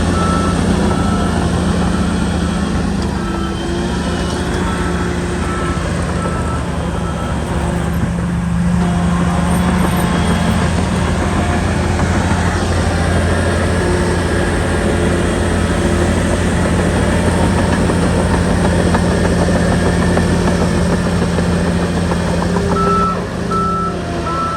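SHANTUI bulldozer's diesel engine running steadily, with a reversing alarm beeping for the first several seconds and again near the end.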